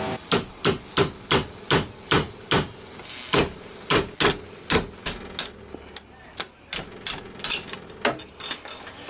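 Hammer tapping during rear main seal replacement: quick, even blows about three a second, then slower, uneven taps over the last few seconds.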